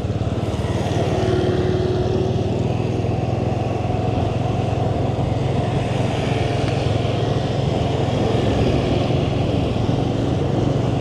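Motorbike engine running steadily while riding, a continuous low drone with road and wind noise over it.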